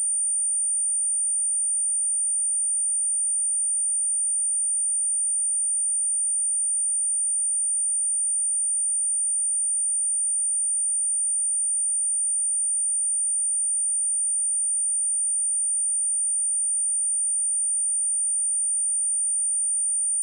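A single pure sine-wave test tone at 9046 Hz, high-pitched and perfectly steady at one level, with no other sound.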